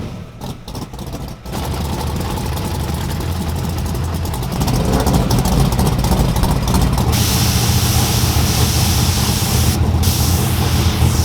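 A drag race car's engine running loud and steady: uneven and choppy for the first second and a half, then holding a constant note that gets louder about four and a half seconds in, with a hissing rush joining about seven seconds in.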